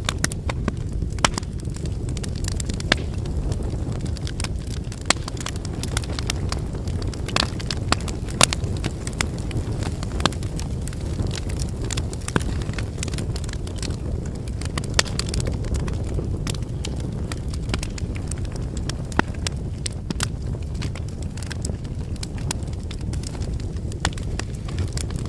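Wood campfire burning: a steady low rush of flame with frequent, irregular crackles and pops from the burning firewood.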